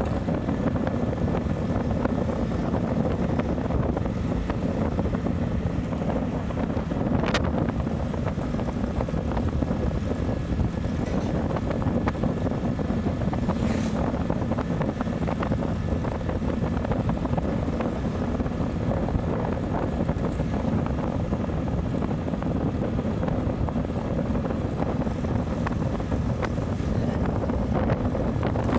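Motorcycle riding at a steady pace: steady engine and road noise under heavy wind noise on the microphone, with two brief sharper sounds partway through.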